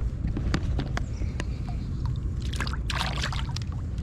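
Water splashing and dripping beside a kayak, with small clicks and knocks, and a louder burst of splashing about two and a half seconds in that lasts about a second.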